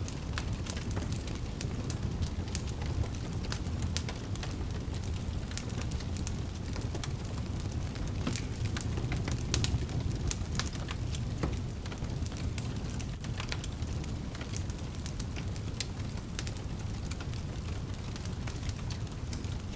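Wood fire burning in a fireplace: a steady low rumble of flames with many sharp crackles and pops at irregular intervals.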